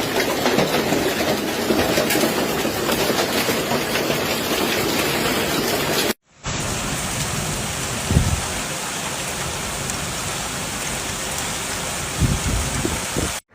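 Hailstones and heavy rain pelting down on surfaces in a dense, steady clatter. The sound cuts about six seconds in to a second recording of the same downpour, which carries a couple of low thuds.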